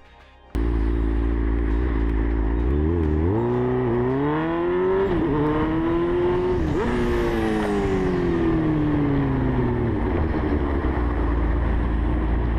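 Motorcycle engine running steadily, then accelerating with two brief dips where it shifts up a gear, then easing off and slowing as the revs fall away, with steady wind rumble from riding.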